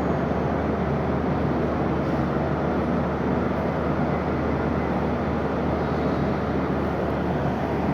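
A steady low rumble that stays even throughout, like large machinery running.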